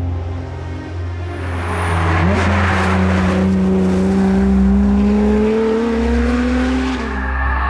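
A Lotus sports car's engine accelerating hard, its note climbing steadily for about four seconds from a couple of seconds in, then falling near the end, with music underneath.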